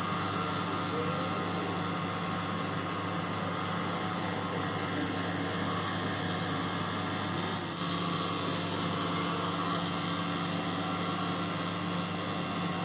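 LG microwave oven running with a loud, steady humming drone, a noise put down to its turntable motor.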